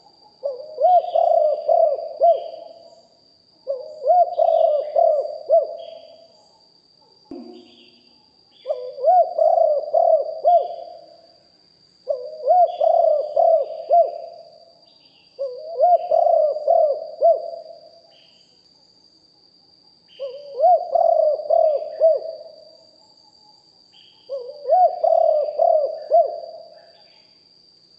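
Spotted dove cooing: a multi-note coo phrase of about two seconds, repeated seven times with pauses of one to three seconds between. A faint steady high-pitched whine runs underneath.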